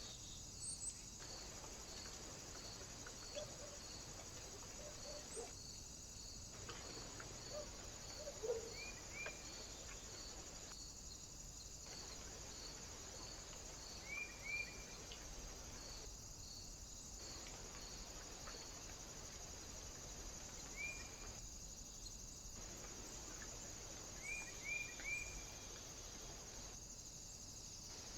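Steady high electronic hiss from a trail camera, with a regular faint high ticking about twice a second. A few short bird chirps come singly or in quick runs of two or three, and there are a couple of soft knocks, the loudest about eight seconds in.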